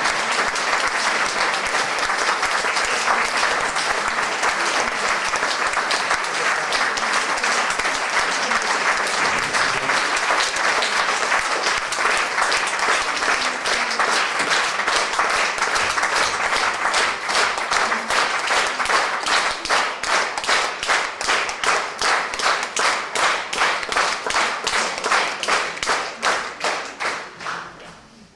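Audience applause: dense clapping that settles about halfway through into rhythmic unison clapping, roughly two to three claps a second, then fades out near the end.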